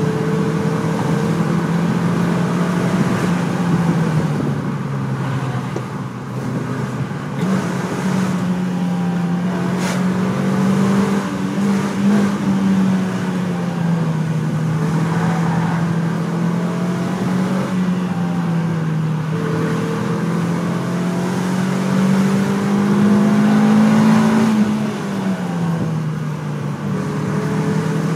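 Renault Twingo RS's 1.6-litre four-cylinder engine pulling through the corners, heard from inside the cabin, its note rising and falling several times as the car accelerates and eases off, with a dip about three seconds in and another near the end.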